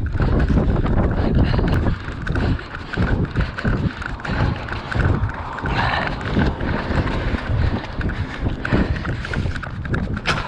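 A runner's footfalls on the road in a steady rhythm, with the jostling of a body-worn action camera and a low rumble of wind on its microphone.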